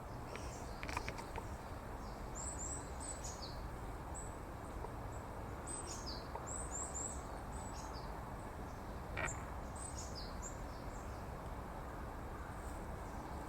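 Small birds calling with short, high, down-slurred chirps in scattered clusters, over a steady low background rumble.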